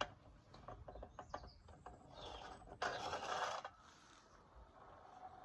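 Light clicks and taps from handling a small Machinator Steamfire model steam engine, then a short hiss lasting about a second near the middle as it is being brought into running.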